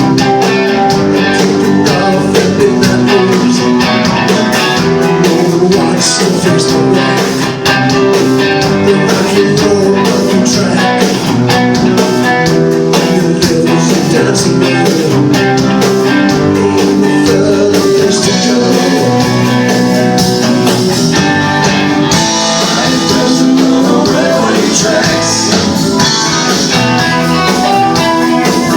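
A live band playing a blues-tinged rock song, with guitar to the fore.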